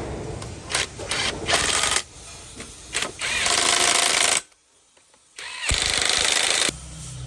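Impact wrench hammering in several short bursts and two longer runs, with a gap of about a second in between, as large bolts are loosened on a diesel engine.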